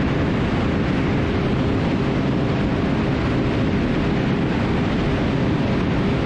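Twin piston engines and propellers of a Cessna T310R running steadily at takeoff-climb power just after liftoff, mixed with wind rush over a wing-mounted microphone.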